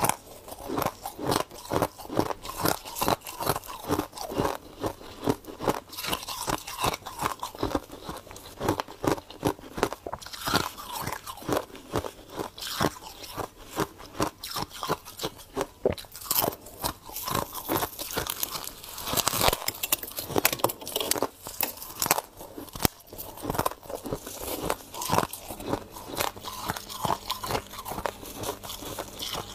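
Ice being bitten and chewed close to the microphone: a quick, irregular run of sharp crunches, several a second, with short pauses between mouthfuls.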